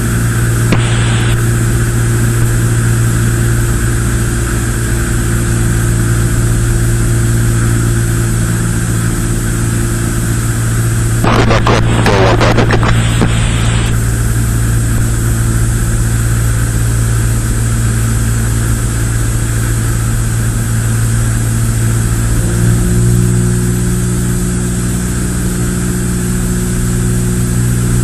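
Cessna 172's piston engine and propeller droning steadily in cruise flight, with a steady high whine above it. A brief noisy burst about eleven seconds in lasts a few seconds, and the engine note shifts slightly about twenty-two seconds in.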